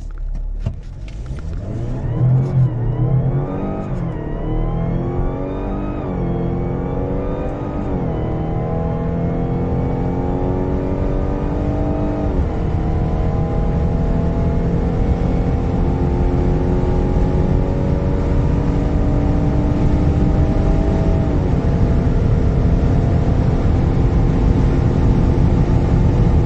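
Mazda CX-60 plug-in hybrid's 2.5-litre four-cylinder petrol engine under full-throttle acceleration. The engine note climbs through each gear and drops at each automatic upshift, about six shifts that come further apart as speed builds, over rising road and wind noise.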